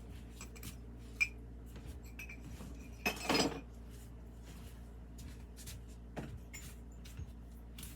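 Glaze-fired ceramic pieces clinking and knocking lightly as they are handled and set down, with a sharper clink about a second in and a louder half-second rattle about three seconds in.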